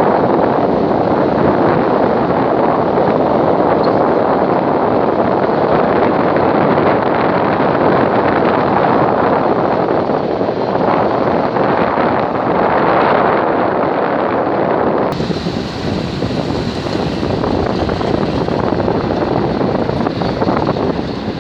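Wind buffeting the microphone: a loud, steady rushing noise. About two-thirds of the way through it changes abruptly, becoming a little quieter and hissier.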